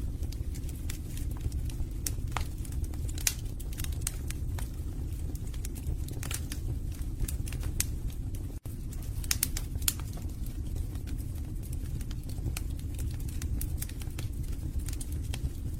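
Wood fire burning in a fireplace: a steady low rumble from the flames, with frequent sharp crackles and pops from the burning logs. The sound cuts out for an instant a little past halfway.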